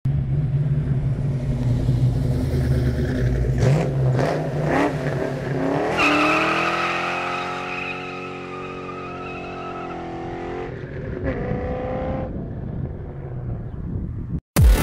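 A Ford Mustang's 5.0 V8 rumbles, is revved sharply a few times, then pulls hard from about six seconds in, its note breaking at two gear changes before fading away.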